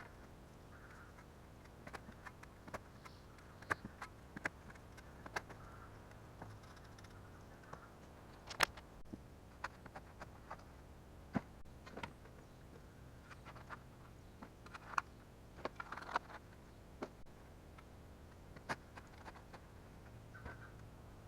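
Hand digging with a shovel: irregular sharp clicks and short scrapes of the blade in soil and stones, with one louder knock about eight and a half seconds in.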